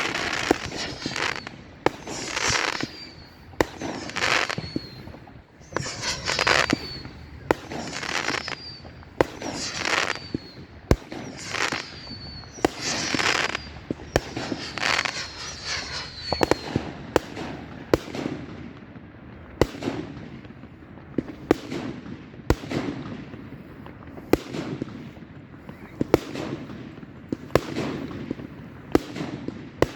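Fireworks going off in quick succession: sharp bangs about once a second, with short high whistles on many of the shots in the first half, then a run of sharper cracks and deeper booms.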